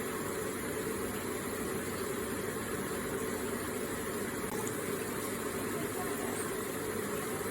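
Electric garden water feature running: water falling and trickling in a steady, unbroken stream.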